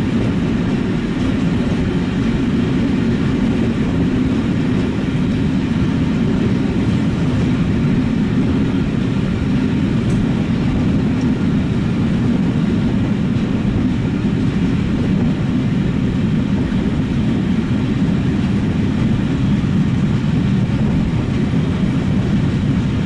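Train running, a steady low rumble of wheels and coaches on the track.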